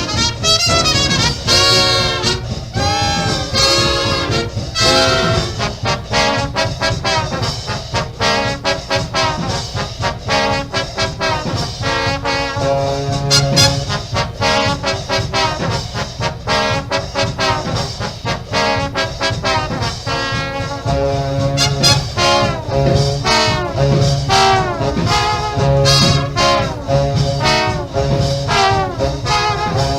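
Fast instrumental swing jazz for Balboa dancing, with a brass section of trumpets and trombones over a steady driving beat.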